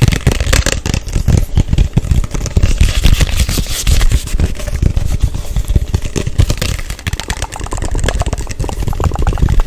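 Fast, aggressive ASMR hand sounds right on the microphone: rapid, dense tapping, rubbing and scratching with a heavy low thumping and crackle.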